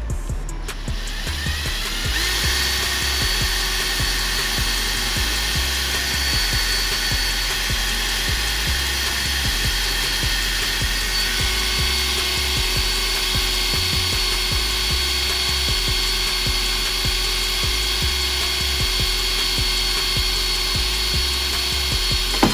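Electric drill motor spinning up about two seconds in, then running at a steady whine before stopping suddenly near the end. Background music with a steady beat plays underneath.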